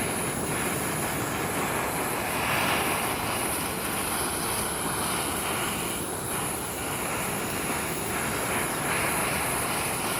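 Food sizzling in hot oil in a frying pan: a steady hiss with no break.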